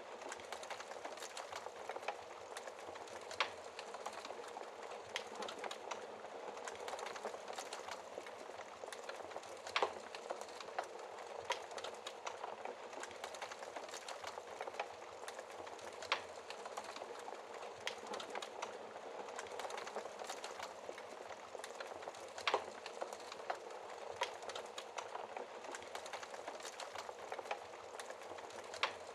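Wood fire crackling in a fireplace: a steady soft hiss of burning with frequent small pops and a few sharper snaps scattered through.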